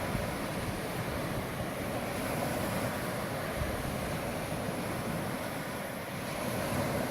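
Steady wash of surf along the shoreline, an even rushing noise with no gull calls standing out.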